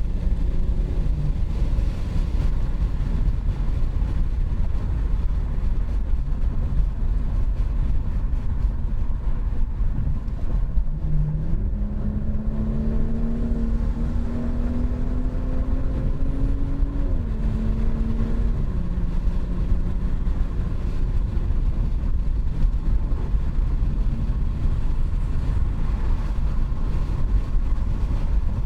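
BMW 540i's B58 3.0-litre turbocharged inline-six with a muffler delete, driving: a steady low drone and road rumble. About halfway through, the engine note climbs steadily under acceleration, drops suddenly, holds briefly, then sinks back into the rumble.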